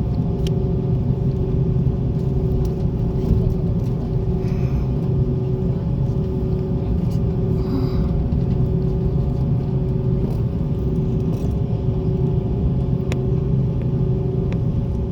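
Airliner cabin noise on the ground before take-off: the engines' steady rumble with a constant hum running through it.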